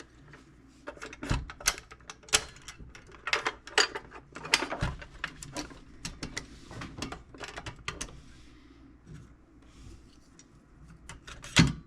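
Small metal parts and tools clicking and rattling irregularly as a tool box's spring-loaded mechanism is worked on, thinning out after about eight seconds, with one sharp knock near the end.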